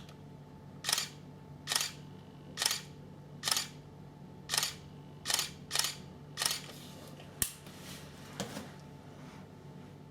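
Camera shutter firing shot after shot, about nine clicks a little under a second apart, then a single sharper click and a last faint double click.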